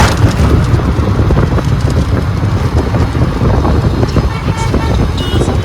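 City traffic at night with heavy wind buffeting the microphone, a loud, steady low rumble. Short high horn toots sound near the end.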